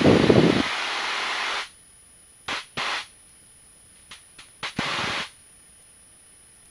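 Hiss of a light aircraft's cabin noise through the headset intercom, cutting in and out abruptly: one long stretch that stops about a second and a half in, then several short bursts and blips.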